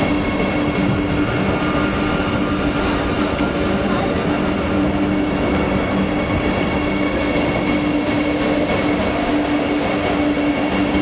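Vande Bharat Express electric train running: a steady rumble of wheels on track with a steady electric hum over it.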